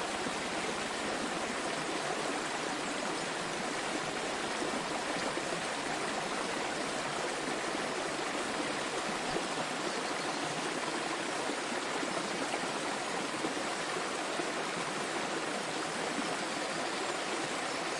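Small waterfall splashing and flowing steadily, an even rush of water.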